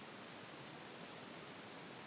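Steady faint hiss with no distinct sounds in it: background noise or room tone.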